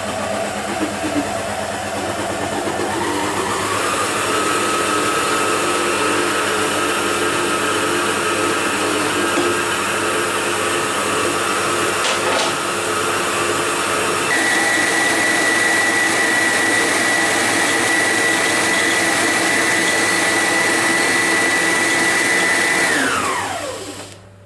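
Electric mixer beating cream cheese and vanilla. Its motor whine steps up in pitch about four seconds in and again about fourteen seconds in, then winds down with a falling pitch and stops near the end.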